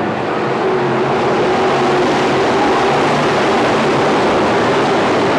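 Stock car engines running at racing speed: a loud, steady drone with no break.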